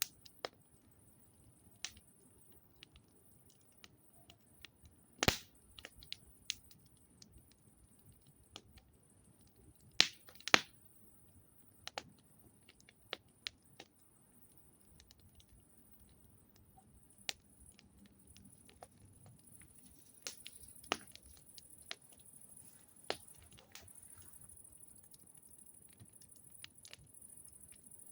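Campfire crackling: irregular sharp pops and snaps from burning wood, a few louder cracks among many small ticks.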